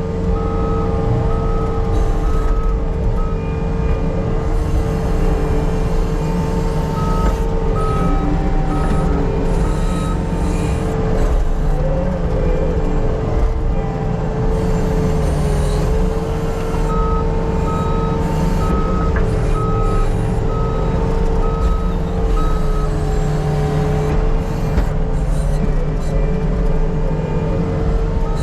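Diesel earthmoving machine running steadily with a whine, its backup alarm beeping about twice a second in spells that stop and start as it reverses.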